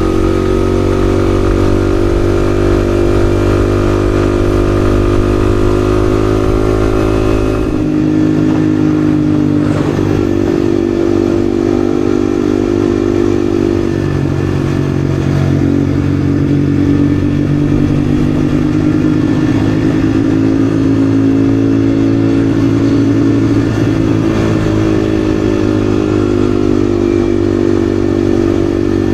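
Yamaha XSR155's 155 cc single-cylinder engine running while the bike is ridden. The engine note holds steady at first, changes clearly about eight seconds in, then falls and rises again with the throttle.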